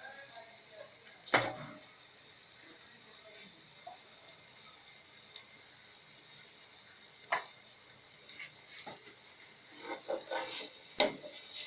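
Chicken frying in oil in a cooking pot, a steady sizzle. A sharp knock comes about a second in and another past the middle, and a run of clinks and knocks of a utensil against the pot comes near the end.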